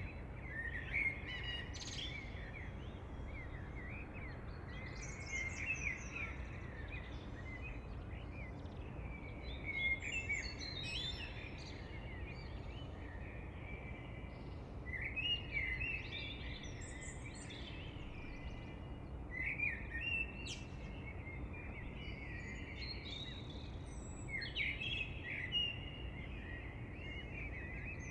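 Birdsong: short phrases of quick chirps, repeated about every five seconds over steady low background noise.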